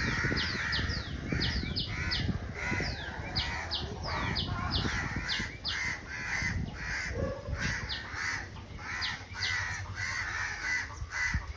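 Birds calling: a steady run of repeated calls, with quick high chirps that fall in pitch, a few each second.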